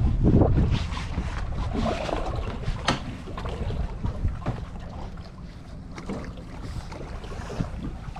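Wind buffeting the microphone on an open fishing boat, a steady low rumble, with a heavy bump right at the start and a sharp click about three seconds in.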